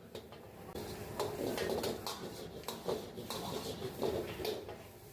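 Kitchen cookware clattering: irregular knocks and scrapes of utensils against a pan.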